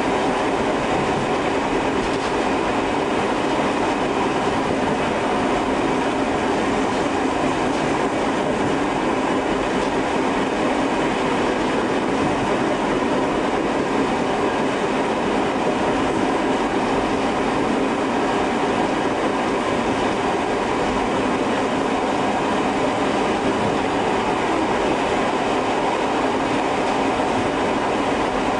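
Tobu 5700 series electric train running along the line, heard from its front cab: a steady rumble of wheels and motors that holds level throughout.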